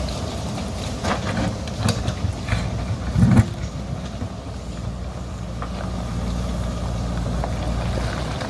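JCB backhoe loader's diesel engine running steadily, with several sharp knocks in the first few seconds and a heavy thump about three seconds in.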